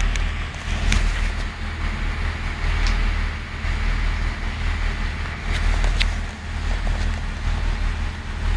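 Steady low rumble of a passenger train running along the line, heard from inside the carriage, with a few short sharp clicks.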